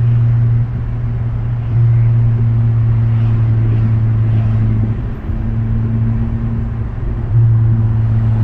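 2019 Honda Civic Sport's four-cylinder engine running with its muffler deleted: a steady, deep exhaust drone at one pitch while driving, dropping in level just under a second in and getting louder again about two seconds in and near the end.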